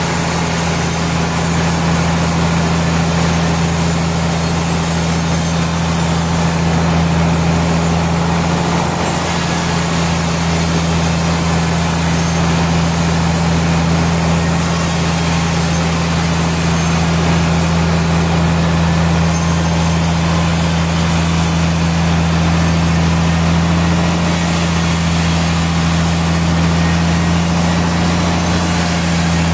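Sawmill machinery running steadily with a constant low hum and a loud, even mechanical noise over it, holding one pitch with no cut that drags it down.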